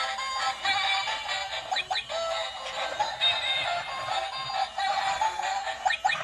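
Electronic robot-cat toy playing a tune with a synthesized singing voice through its small built-in speaker. It sounds thin and tinny, with no bass.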